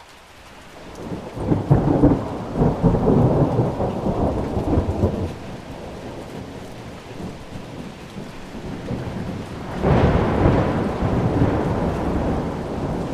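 Steady rain with two rolls of thunder. The first builds about a second in and rumbles for several seconds; the second breaks suddenly near the end.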